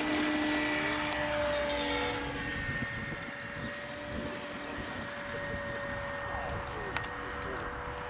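Electric motor and propeller of a radio-controlled model aeroplane whining in flight: a steady high whine whose pitch drifts slowly lower, loudest in the first couple of seconds and then easing off a little.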